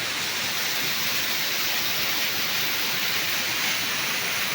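Waterfall: a steady rush of falling water, loud and even.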